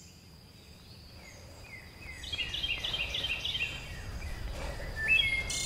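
A bird calling: a run of short, downward-sliding chirps, a few a second, then a single rising note near the end, over a low steady outdoor rumble.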